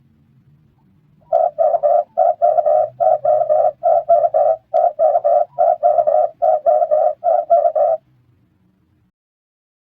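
Red turtle dove cooing: a rapid string of short, evenly spaced coos, about three a second, starting a little over a second in and stopping near the end.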